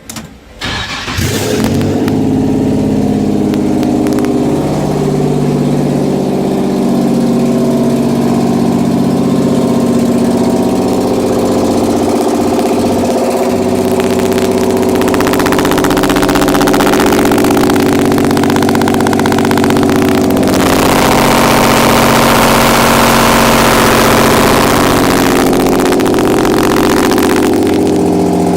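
Nissan VQ37VHR 3.7-litre V6, swapped into a Mazda RX-8, cranks and catches about a second in on its first start, then runs steadily. For stretches in the second half it runs louder and busier, as the revs rise.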